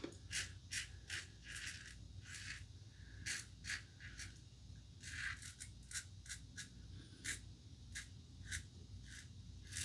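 Double-edge safety razor (The Razor Company Vanguard, Standard Plate) scraping through lathered stubble in short strokes, roughly two a second with brief pauses, cutting the growth cleanly.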